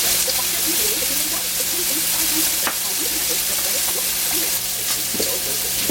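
Food sizzling as it is stir-fried in a pan, with a steady hiss and a few sharp utensil scrapes or clicks against the pan.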